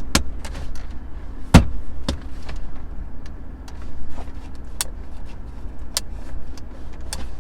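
Scattered clicks and knocks from handling in and around a car, with one loud thump about one and a half seconds in, over a steady low rumble.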